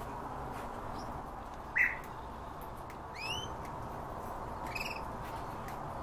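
Three short, high bird calls about a second and a half apart, the middle one a quick sweeping call and the last one trilled, over a faint steady hum.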